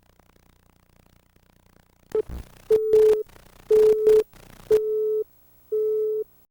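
A short burst of noise with a low thump, then an electronic beep tone sounding four times, each about half a second long and about once a second, in an even on-off cadence.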